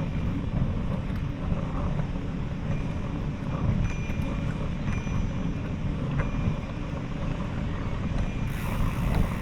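Steady low rumble of wind and road noise on the microphone of a camera riding along on a bicycle, with a few faint clicks.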